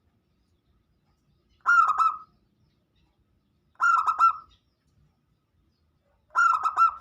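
Zebra dove (perkutut) cooing: three short, rippling coo phrases about two seconds apart.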